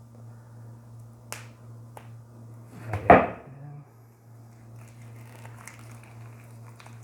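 Plastic shrink-wrap being torn and handled off a boxed book set by hand: a few sharp clicks, then one loud crackling rustle about three seconds in, with softer crinkling afterwards.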